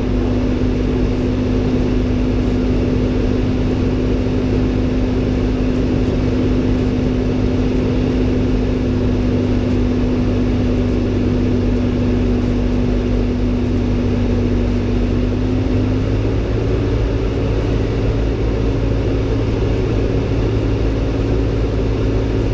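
Robin DR400-120 light aircraft's four-cylinder piston engine and propeller running steadily at low power while taxiing after landing. The engine note steps up slightly about 16 seconds in.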